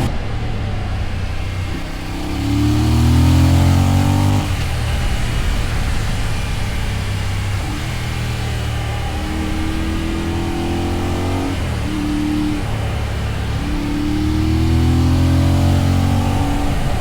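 Voge DS800 Rally's parallel-twin engine pulling through the gears. The pitch climbs and drops back several times as it shifts up.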